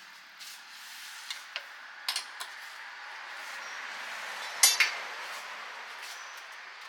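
Sharp metal clinks and knocks of cooking utensils, several in the first half and the loudest a quick double clink about two-thirds of the way through, over a steady hiss that swells and fades.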